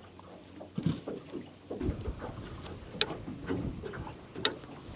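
Small fishing boat sitting in river current: water lapping against the hull and some wind, with two sharp clicks, one about three seconds in and one near the end.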